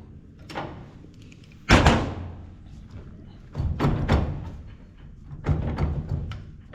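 Hand tools knocking against a grain drill's gearbox while bolts and nuts are worked loose: one sharp knock a little under two seconds in, the loudest, a lighter knock before it, and two short stretches of rattling and knocking later.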